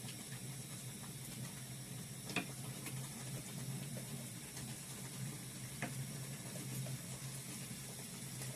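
Steady hiss of a pot simmering on the stove, with two light clicks about two and a half and six seconds in.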